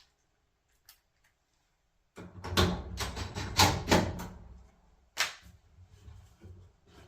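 Clattering and rattling of dryer parts being handled and fitted for about two seconds, then a single sharp click.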